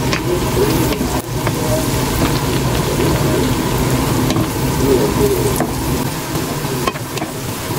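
Boiled peanuts and sliced chili frying in bubbling oil, a steady sizzle, with a wooden spatula knocking against the pan a few times as they are stirred.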